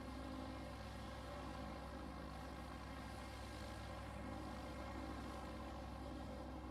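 Steady, even drone of a small airplane's motor.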